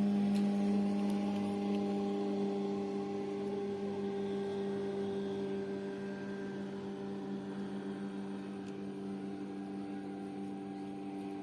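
A steady low hum made of several held tones, slowly fading.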